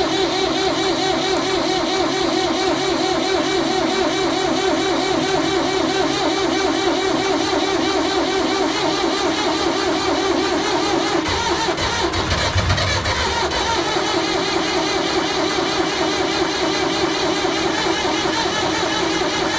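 Engine running after a hard start, with a steady, rough note. About halfway through, the note changes for a couple of seconds as a deeper rumble comes in, then it settles back.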